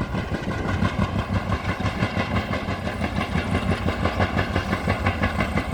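Diesel express train running, with a fast, steady throb and a steady whine above it.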